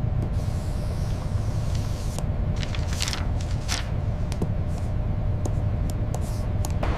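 Steady low engine rumble of a tug under way at sea, with a faint hum and a few brief hissing splashes about three to four seconds in.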